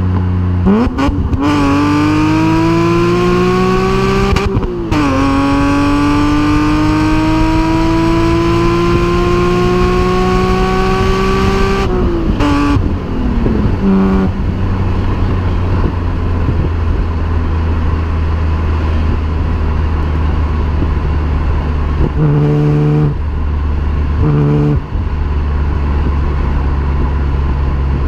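BMW E36 M3's 3.2-litre straight-six through a homemade exhaust, accelerating hard: the revs rise, drop at a gear change, then climb again in a long pull. Then it lifts off and the revs fall to a steady low drone, with two short throttle blips near the end.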